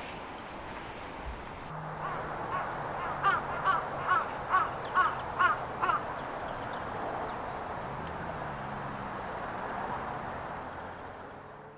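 A crow cawing about seven times in quick succession, over a steady background hiss that fades out at the end.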